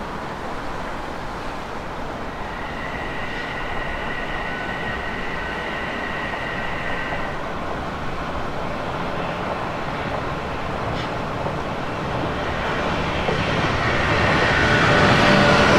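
Odakyu electric train (set 3264F) running slowly along the line at about 15 km/h, with a thin high tone for a few seconds early on. The rumble grows louder over the last few seconds as the train draws nearer.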